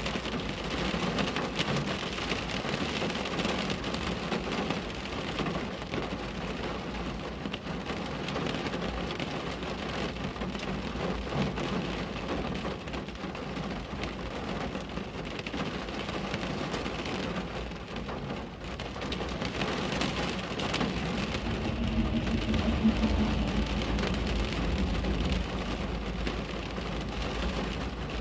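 Steady rain falling on a window pane. About two-thirds of the way through, a low rumble of thunder swells for a few seconds and fades.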